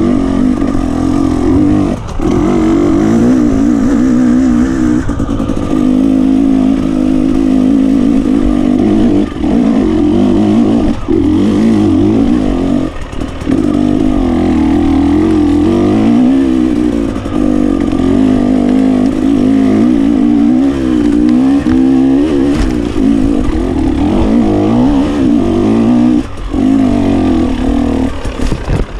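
A GasGas 300 two-stroke enduro motorcycle engine running hard while being ridden. Its pitch rises and falls with the throttle, and it drops off briefly several times as the throttle is closed.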